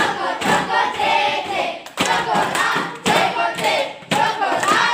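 A group of children singing together in unison, in short phrases that start sharply, with hand claps.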